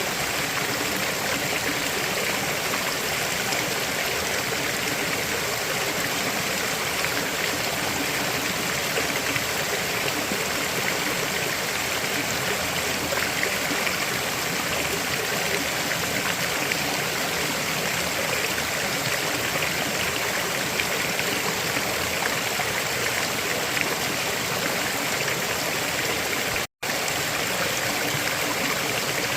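River flowing: a steady, even noise of running water, cut off completely for a split second near the end.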